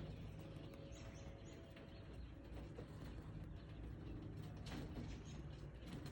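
King quail (button quail) giving a few faint, short, high peeps, a quick run of them about a second in and another near five seconds, over a steady low hum and a few soft taps.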